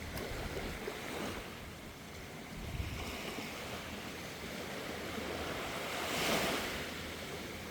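Sea waves washing in with wind on the microphone: a steady rush that swells twice, the second time about six seconds in.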